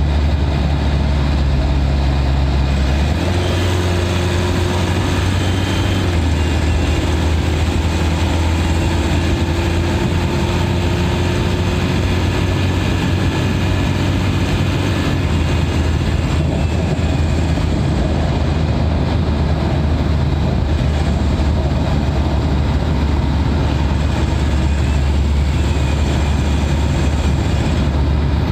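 Turbodiesel engine heard from inside its engine bay, running steadily at highway cruising speed with a deep, even drone. Its note steps up about three seconds in, then holds steady.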